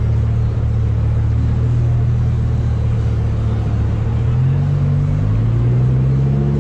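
Lamborghini Huracán's V10 engine rumbling steadily as the car cruises slowly. About four and a half seconds in, its pitch rises as the revs climb.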